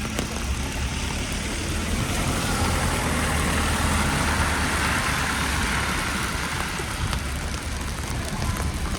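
A motor vehicle passing by, a low engine rumble with tyre noise that swells to its loudest about halfway through and then fades away.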